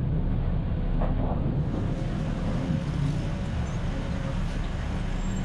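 Road traffic: a steady low rumble of passing engines and tyres.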